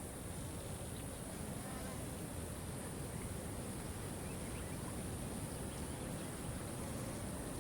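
Waterfall rushing steadily, with a constant high-pitched insect drone above it and a few faint bird chirps.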